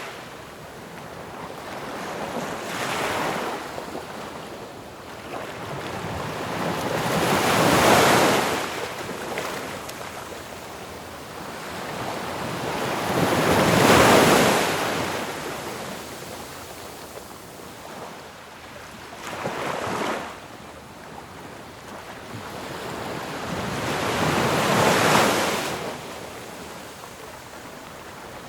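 Ocean waves crashing on a shore, each wave swelling to a peak and washing out, about every six seconds. The loudest breaks come about 8, 14 and 25 seconds in.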